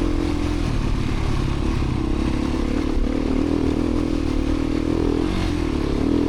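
Beta 350 RRS dirt bike's single-cylinder four-stroke engine running while the bike is ridden along a trail. Its pitch dips briefly about a second in and again near the end as the throttle eases, then picks back up.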